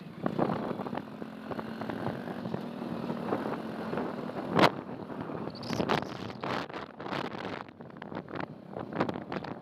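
Motorbike riding along, heard mostly as uneven rumble and wind buffeting the microphone in irregular gusts. There is a sharp knock about four and a half seconds in.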